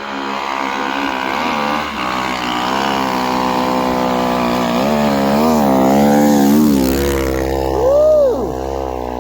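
Snowbike engine (a dirt bike converted with a ski and track) running at a fairly steady pitch that wavers up and down, then a quick rev that rises and falls near the end.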